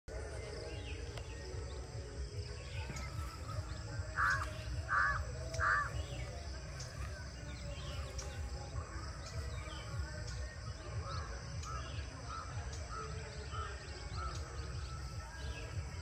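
Birds calling in the morning: three loud calls close together about four seconds in, then a run of six shorter evenly spaced calls later, with faint chirping of smaller birds throughout. A steady low rumble lies under it all.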